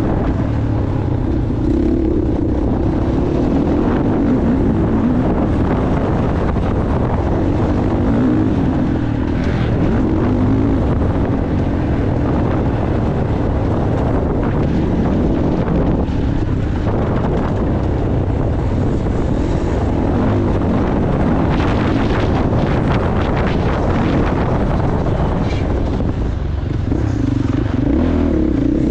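Motocross bike engine running hard while being ridden round the track, its pitch rising and falling with the throttle and briefly dropping off twice as the rider eases off.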